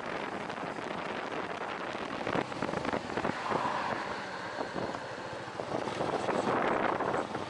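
Wind rushing over the microphone over a vehicle running, a steady rush that swells louder a few times.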